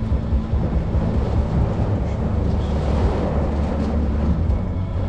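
Heavy rain pouring down steadily, with a continuous low rumble underneath.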